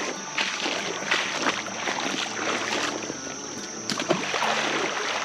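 Irregular splashing and sloshing of shallow creek water as a caught fish is let back into the creek.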